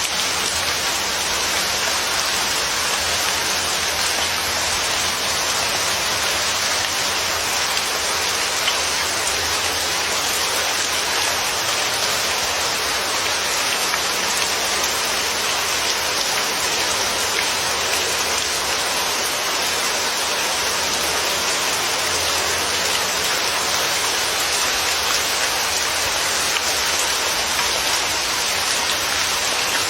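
Steady, dense rainfall, a constant even hiss of rain falling on a surface with no breaks or distinct drops standing out.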